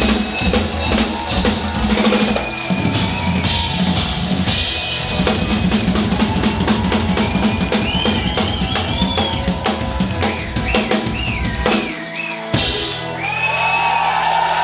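A live band playing a rock cover with a driving drum kit under a high, bending lead melody. About twelve seconds in the band breaks off, hits once together and holds a final chord.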